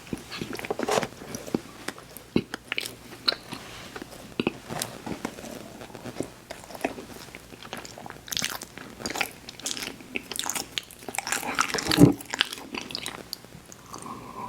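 Close-miked mouth sounds of a person biting and chewing sweets: a stream of small clicks and crunches, with the loudest bite about twelve seconds in.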